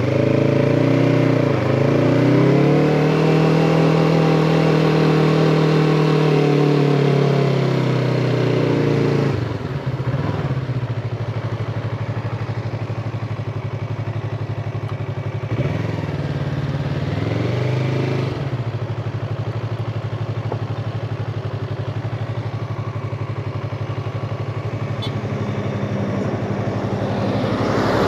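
Yamaha MT-25's 250 cc parallel-twin engine pulling under throttle, its pitch rising over the first few seconds, then falling away as the throttle eases about a third of the way in. It picks up briefly again and settles into a lower, steady run for the rest.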